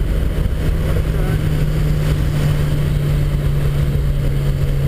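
Car engine running steadily under load at one pitch, rising slightly midway, heard from inside the cabin over low road rumble.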